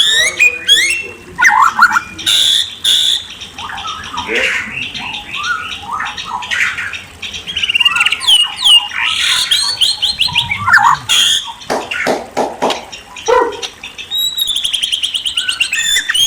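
A murai songbird singing a long, varied song of loud sliding whistles and chattering notes, with a few sharp clicks past the middle and a fast even trill near the end.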